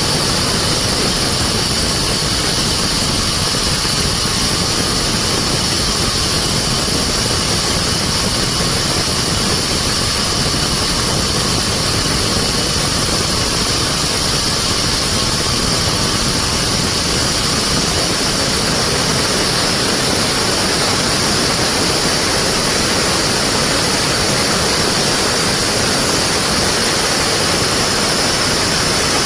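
Sawmill band saw running steadily: a loud, even machine noise with a constant high whine.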